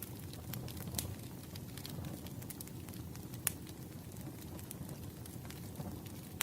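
Wood fire burning, a steady low rustle with irregular sharp crackles and pops, one louder pop about halfway through.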